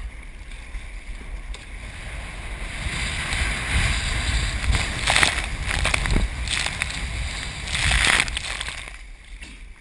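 Ocean surf rushing and splashing as a wave breaks, building over several seconds to loud splashes about five, six and eight seconds in, then dying away.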